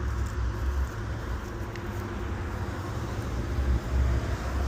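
Low, uneven rumble of idling car engines with general outdoor background noise.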